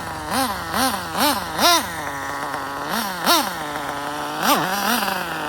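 RB sealed-backplate CE nitro engine of an RC drag car idling and being blipped over and over, its pitch jumping up and dropping back about seven times, while it burns off the last of its fuel.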